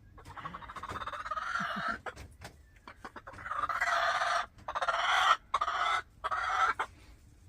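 A displeased hen making loud, drawn-out complaining calls: one long call lasting about two seconds, then, after a pause, four more in quick succession starting about three seconds in.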